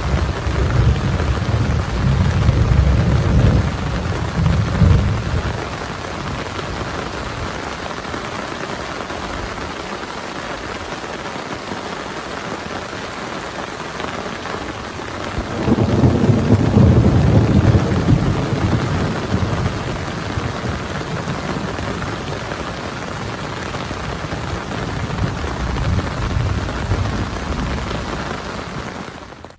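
Heavy rain falling steadily, with two long rolls of thunder: one in the first five seconds, and another starting about halfway through that fades away over several seconds.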